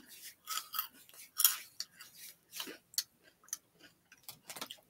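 A person chewing crunchy Cheetos with the mouth closed: irregular crisp crunches, several a second, the loudest about a second and a half in.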